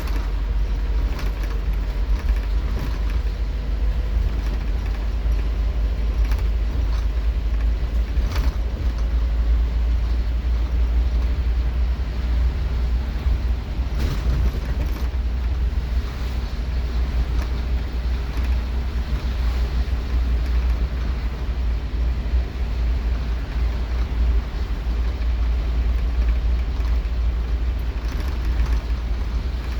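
Scania K230UB Omnilink single-deck bus's diesel engine running steadily under way, heard from on board, with a heavy low rumble and road noise and a couple of brief knocks.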